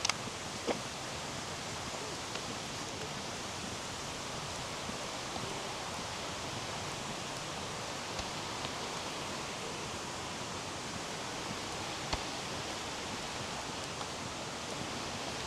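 Steady rushing of flowing water, an even hiss with no rhythm, with a few faint clicks over it.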